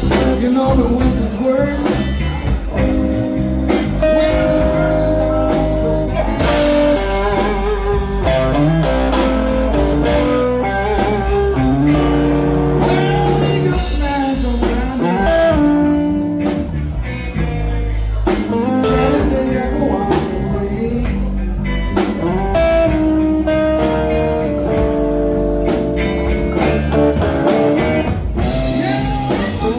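Blues band music: a guitar playing held and bending notes over bass and a steady drum beat.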